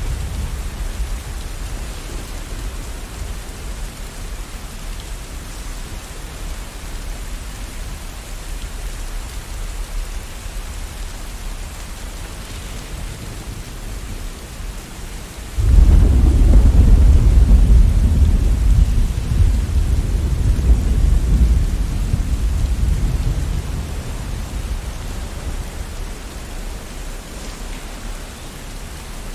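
Steady heavy rain, with a deep thunder rumble that breaks in suddenly about halfway through and rolls away over several seconds; the tail of an earlier rumble is fading at the start.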